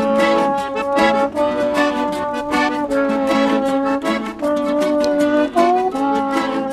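A band plays an instrumental passage: sustained reedy or brassy chords change every second or so over a steady strummed rhythm, with no singing.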